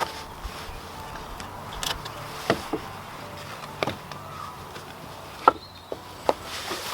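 Bricks being set in place on a wooden platform: a handful of separate knocks and taps, the loudest about five and a half seconds in.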